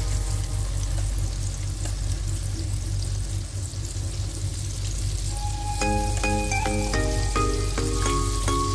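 Battered calamari deep-frying in a pan of hot oil: a steady crackling sizzle. Background music with a melody of short notes comes in about five and a half seconds in.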